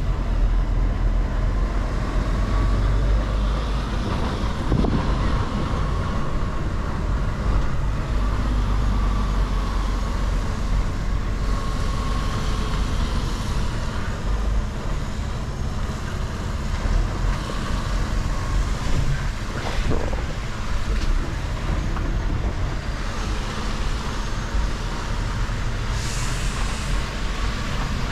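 Mercedes-Benz Actros L truck driving slowly, its diesel engine running steadily with road and wind noise. Two short knocks, about five and twenty seconds in.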